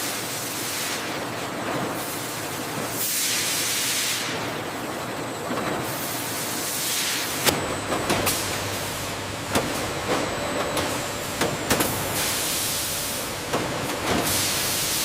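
Factory machinery running with a steady hiss that swells and fades every couple of seconds, like air or steam venting, and a few sharp clicks in the second half.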